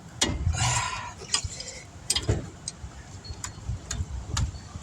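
Scattered metallic clicks and clinks of hand tools on brake hardware, with a short scraping rattle about half a second in.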